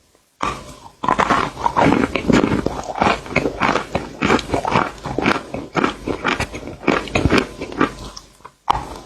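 Close-miked crunching and chewing sounds, dense and irregular. They start about half a second in, pause briefly around a second in, and die away near the end before one last crunch.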